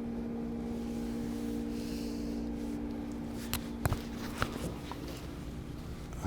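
A steady low machine hum that fades out a little over halfway through, with a few sharp clicks or knocks around the middle.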